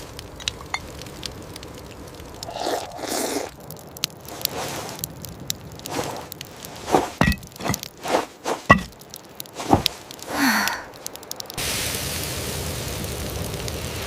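Scattered scrapes, cracks and knocks of things being handled, with a few louder knocks in the middle. Then, about three-quarters of the way in, a steady hiss of rain starts suddenly.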